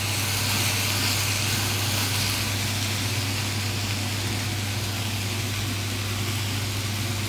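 Mushrooms and capsicum strips sizzling in a frying pan, a steady even hiss, over a constant low hum.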